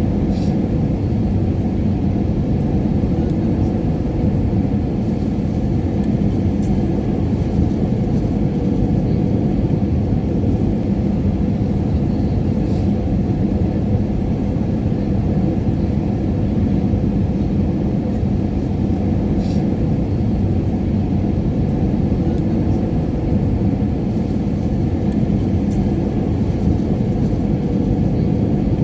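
Airliner cabin noise in flight: a steady low rumble of engines and rushing air with a constant hum through it, and a few faint clicks.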